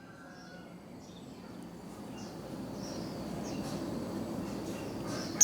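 A low, even background noise that slowly grows louder, with a few faint high bird chirps over it.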